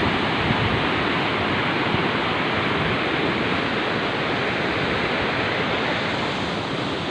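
Steady rushing water, an even noise without breaks.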